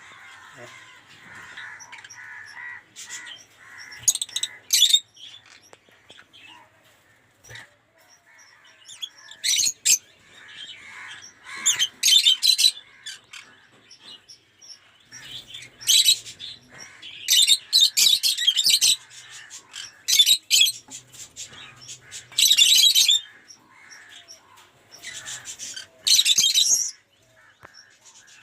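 Lovebirds in an aviary giving loud, harsh, high-pitched shrieking calls in runs of about half a second to a second, repeated many times, over fainter continuous chattering.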